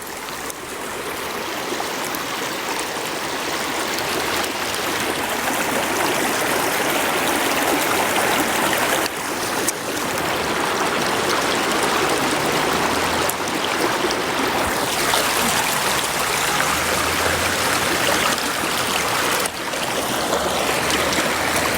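River water rushing steadily, growing louder over the first few seconds and then holding steady.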